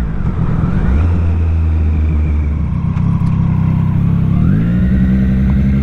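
Triumph Street Triple RS three-cylinder motorcycle engine under way with wind noise. The revs drop and climb again right at the start, and rise once more about four and a half seconds in before holding steady.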